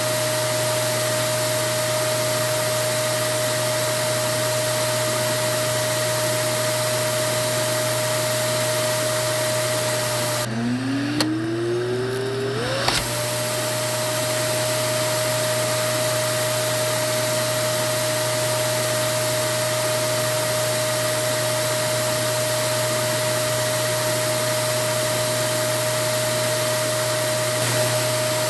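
Vacuum cleaner motor running with a steady whine and rush of air. About ten seconds in, the airflow hiss briefly drops away and the motor's pitch dips, then whines back up to full speed over about two seconds.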